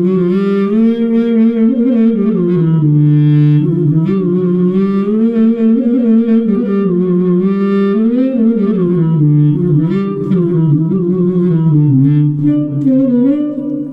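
A melody played through a Zoom B1Xon effects pedal on a synthesized clarinet-like patch with a thin tone, its pitch gliding and bending between sustained notes.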